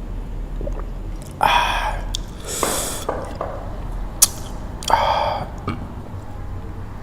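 Close-miked mouth sounds of eating spicy noodles. There are two drawn, pitched sounds, about a second and a half in and again about five seconds in, with a hissing suck between them and a sharp click just after four seconds.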